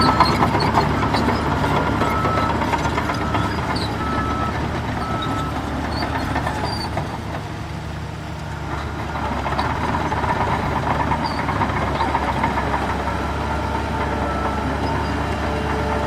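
Heavy diesel earthmoving machinery running steadily, with a reversing alarm beeping at an even pace for the first five seconds or so. The engine noise eases off around the middle and then builds again.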